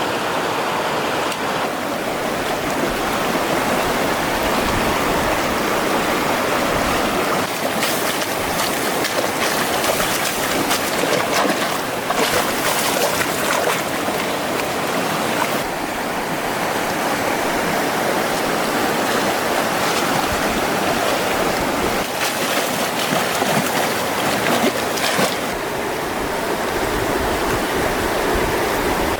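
Steady rush of running water, louder and brighter in two stretches, about eight to thirteen seconds in and again near twenty-two to twenty-five seconds.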